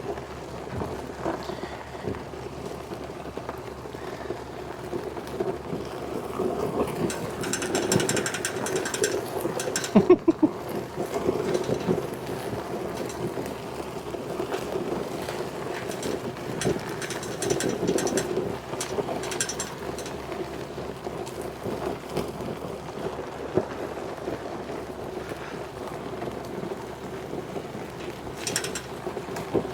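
A vehicle engine running steadily under load while towing, with a few sharp metallic knocks about ten seconds in.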